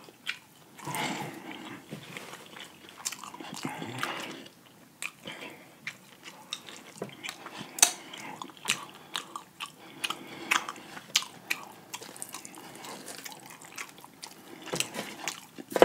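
Biting into and chewing fried chicken drumsticks close to the microphone: irregular small clicks and crunches of mouth and breading.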